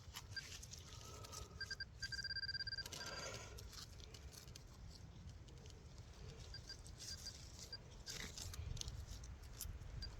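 Metal detecting pinpointer beeping in quick pulses as it is probed in a dig hole, loudest for about a second a couple of seconds in, with shorter beeps later, over soft scraping and rustling of wet soil.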